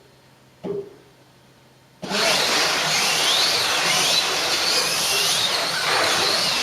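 A single short start-countdown beep, then about two seconds in several Can-Am slot cars take off together: their small electric motors make a high whine that rises and falls with speed, over a steady rush of the cars running on the track.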